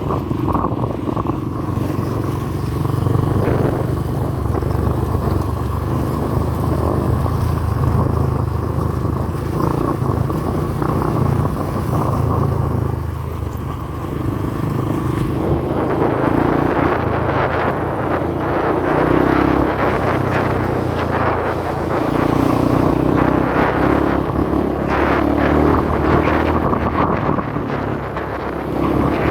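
Honda CRF150L single-cylinder trail motorcycle engine running under way, its pitch rising and falling with the throttle. A rushing noise joins from about halfway through.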